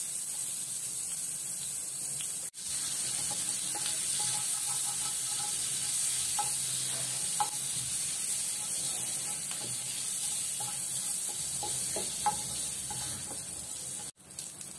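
Salted fish strips sizzling steadily in hot oil in a frying pan, stirred with a wooden spatula, with a few small pops. The sound cuts out briefly twice, once about two and a half seconds in and once near the end.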